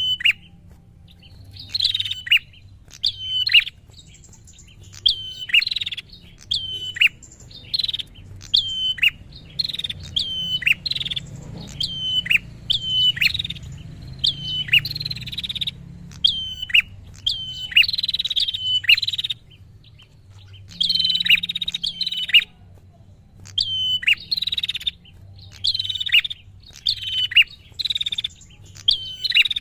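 Prinia (prenjak) calling over and over: a sharp chirp that drops steeply in pitch, about once a second, with a couple of short pauses.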